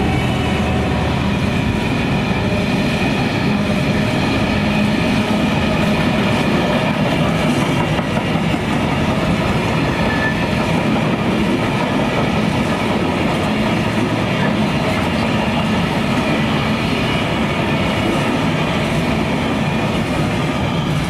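Freight train wagons rolling past close by, with a steady loud clatter of wheels on the rails.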